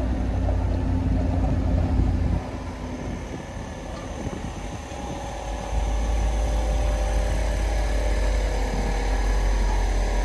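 Chevy truck on the move: a steady low engine and road rumble that eases off about two seconds in and builds back up around six seconds.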